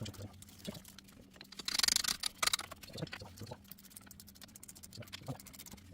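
Ratchet with a 13 mm socket clicking in a quick burst about two seconds in, tightening the bolts of a new front hub bearing, with a few lighter metallic ticks and knocks of the tool around it.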